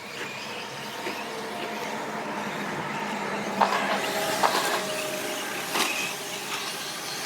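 Electric 4wd short course RC trucks racing on the track: a steady hum of motors and tyres with a faint whine, and a few sharp knocks between about three and six seconds in, from trucks landing or hitting each other.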